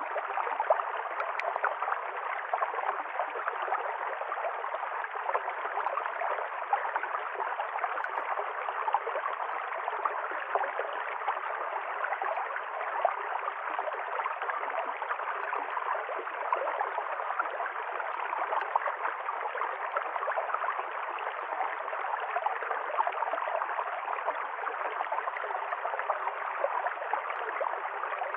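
Stream water flowing over stones, a steady splashing and gurgling rush.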